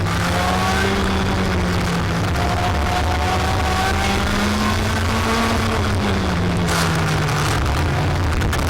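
Racing kart engine running at speed, with a steady low hum. Its pitch rises slowly and then drops about six seconds in, and shorter rising notes sound above it.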